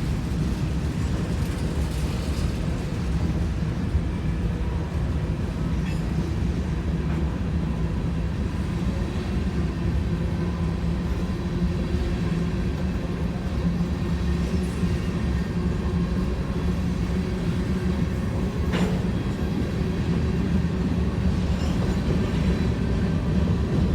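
Loaded freight train of hopper cars rolling past, a steady low rumble of steel wheels on rail, with one sharp clank about three-quarters of the way through.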